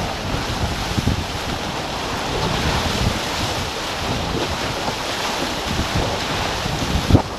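Wind buffeting the microphone over water rushing and splashing past the hulls of a racing catamaran under sail, with a short low buffet near the end.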